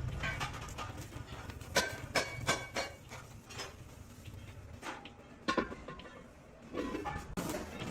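Metal clanks and knocks in a workshop: about half a dozen sharp, irregular strikes, some ringing briefly, over a low hum.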